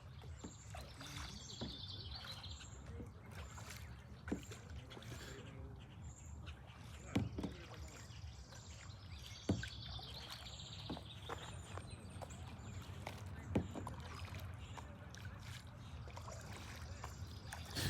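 Kayak paddling: a paddle working the water, with a few sharp knocks of the paddle against the hull over a steady low rumble. A bird trills twice in the background.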